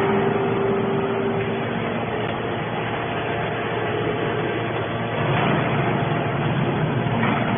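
Y81 hydraulic scrap metal baler running: a steady mechanical drone from its hydraulic power unit, with a hum that fades out under two seconds in.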